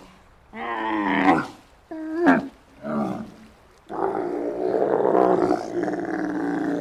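Giraffe calling: a few short pitched calls, one sliding upward, then a long rough growling call starting about four seconds in.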